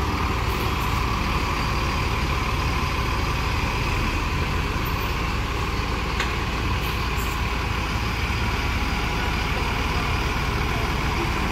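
Bus diesel engine running steadily with a low, even drone, and a single sharp click about six seconds in.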